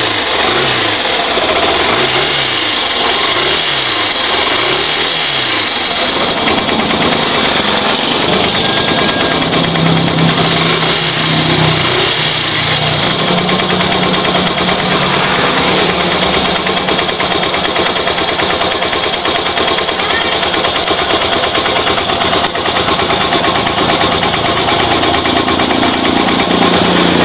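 Yamaha SZ-R's single-cylinder four-stroke motorcycle engine revved up and down about four times, then held running at a steady speed.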